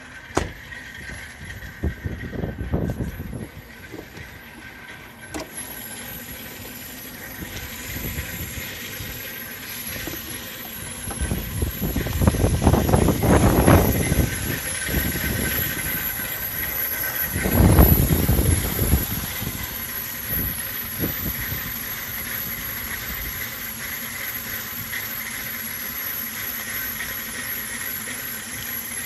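2002 Ford Explorer engine running at a rough idle, with three louder surges about two, twelve and eighteen seconds in, and a thin steady high whine over it.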